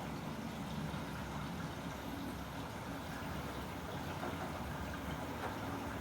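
Samsung WW90J5475FX/AH Digital Inverter washing machine running steadily during its rinse cycle, with an even, unbroken noise.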